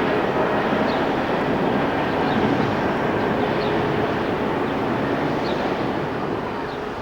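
Brush Class 60 diesel locomotive with its Mirrlees engine running, a steady dense rumble that eases slightly near the end.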